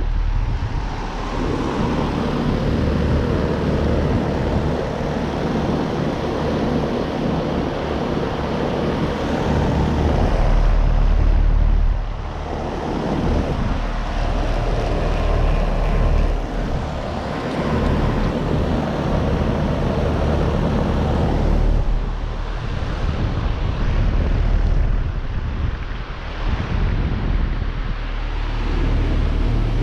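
Several central air conditioner condensing units running: a steady fan whoosh over a low compressor hum, the level dipping briefly a few times.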